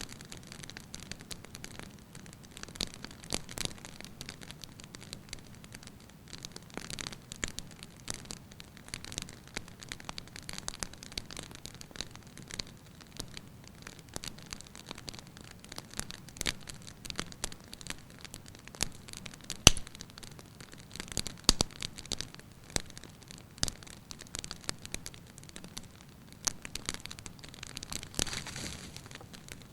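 Wood fire crackling: irregular pops and snaps from the burning logs over a soft steady hiss, with the sharpest pops about twenty seconds in.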